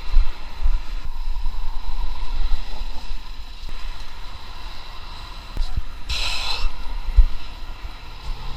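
Wind buffeting a small camera's microphone, with irregular low thumps throughout and a short hiss about six seconds in.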